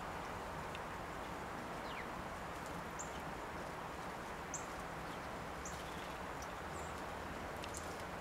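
A few brief, very high-pitched bird chips, scattered about once a second in the second half, and one short falling note about two seconds in, over steady outdoor background noise.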